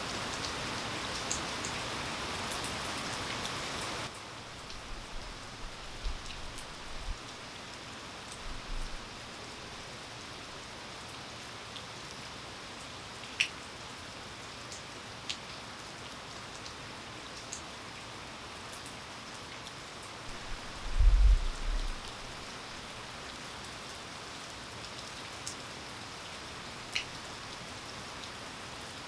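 Steady rain falling, with scattered sharp ticks of single drops hitting a surface. About four seconds in the rain abruptly becomes a softer hiss, and about two-thirds of the way through a brief low rumble, the loudest sound, rises over it.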